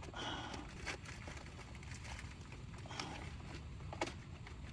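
A few faint, sharp clicks of small metal tools and parts being handled, spread about a second apart, over a low steady outdoor rumble.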